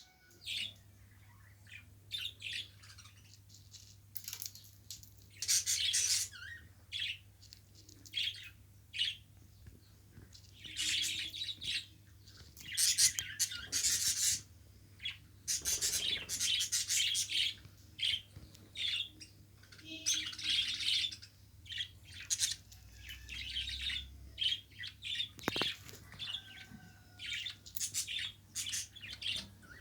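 Budgerigar chirping and chattering in irregular short bursts over a faint low hum, with a single sharp click near the end.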